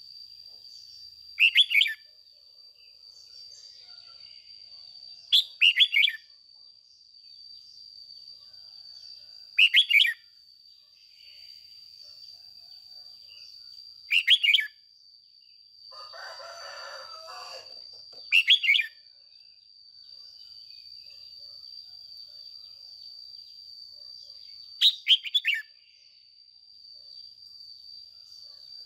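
Red-whiskered bulbul singing short, loud phrases of a few quick notes, about every four seconds, with a steady high-pitched tone underneath.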